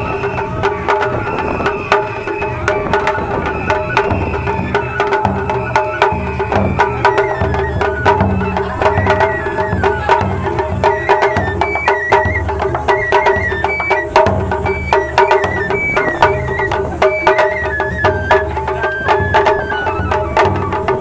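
Japanese festival hayashi music: a high flute plays a stepping melody over steady drumming, with frequent sharp percussive strikes.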